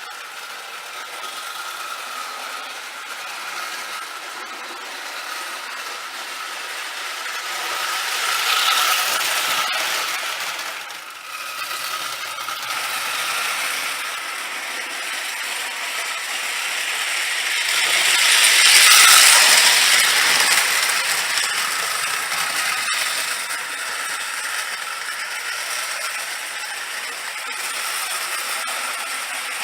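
Marx No. 999 O-gauge toy train engine running around the layout pulling metal cars: a steady whir of motor and gears with the clatter of wheels on tinplate track. The sound swells twice as the train comes close, about nine seconds in and more loudly near the twenty-second mark.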